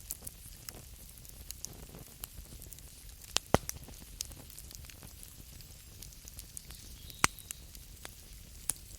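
Campfire crackling: a steady low hiss of burning with frequent small snaps, and two sharp, louder pops, one a little before halfway and one about three-quarters through.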